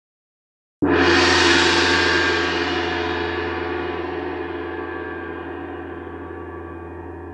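A gong struck once, about a second in, ringing with many overtones and a deep hum and slowly dying away.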